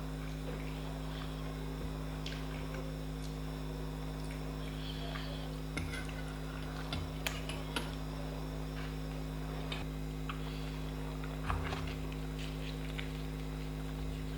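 Eating sounds: quiet chewing of poori and chhole with scattered small clicks and taps, over a steady low electrical hum.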